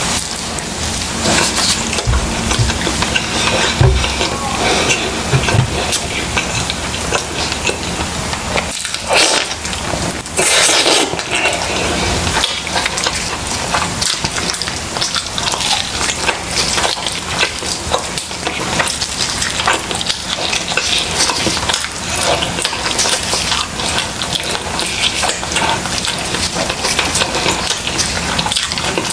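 Close-miked wet chewing and lip smacking on grilled chicken, with the meat being torn apart by gloved hands: a dense run of small wet clicks and crackles.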